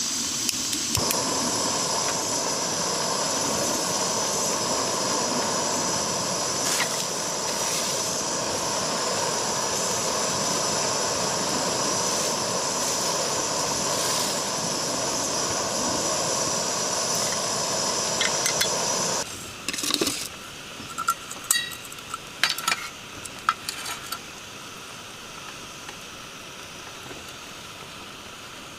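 A loud steady hiss with faint whistling tones cuts off abruptly about 19 seconds in. It is followed by several light clinks and knocks, over a softer hiss like rain.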